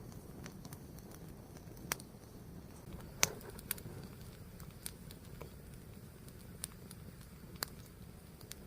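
Burning fire crackling: scattered sharp pops and snaps at irregular intervals, the loudest about three seconds in, over a low steady rumble of the flames.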